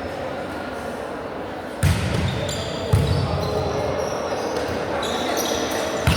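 A volleyball hit twice, about a second apart, followed by short high squeaks like sneakers on a court floor, over a background of voices.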